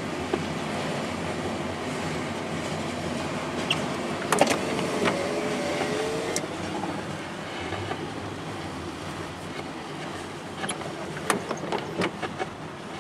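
Pan Am Railways train running with a steady rumble, a brief squeal about four to six seconds in, and a run of sharp clicks near the end.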